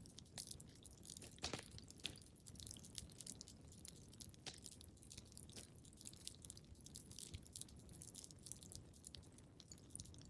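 Wood fire crackling in a fireplace: a dense run of small irregular snaps and pops, with a few sharper pops about a second and a half in.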